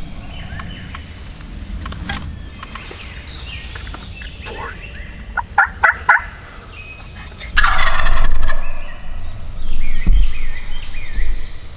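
Wild turkey gobbler gobbling loudly and close, two rattling gobbles a couple of seconds apart in the second half, after a few short clipped notes. Small songbirds chirp faintly behind.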